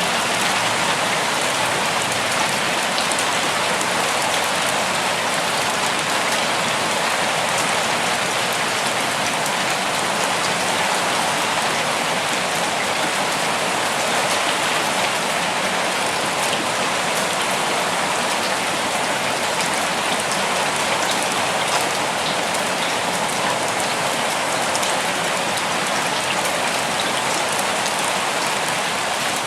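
Steady rain falling in a forest, a dense even hiss with scattered drop patter on surfaces.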